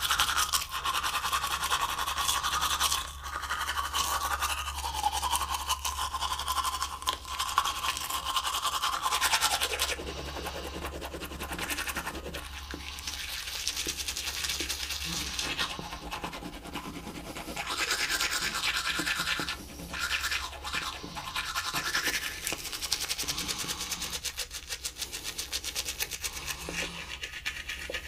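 Teeth being brushed with a toothbrush: continuous wet scrubbing of the bristles, easing off briefly a few times.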